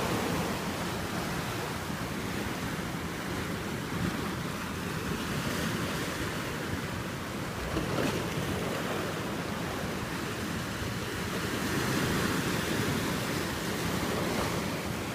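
Atlantic Ocean surf washing in continuously, swelling and easing as waves break, with wind on the microphone.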